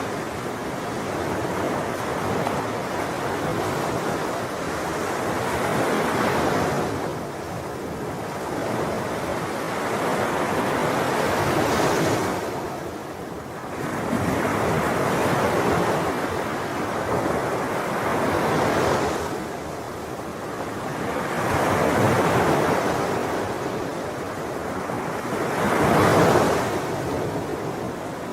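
Sea waves breaking and washing on a shore, each wave swelling and ebbing every four to six seconds, the loudest about two seconds before the end.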